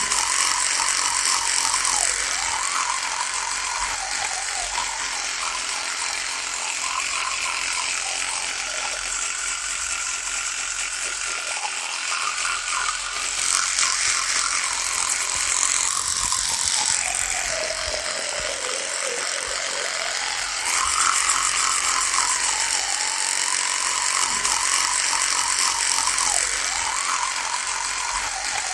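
Electric toothbrush running with a continuous buzz whose pitch wavers up and down, sagging noticeably lower for a couple of seconds a little past the middle.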